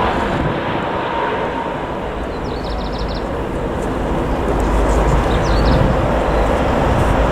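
Jet airliner engine noise: a loud, steady rushing sound with a deep rumble that grows louder after about four seconds.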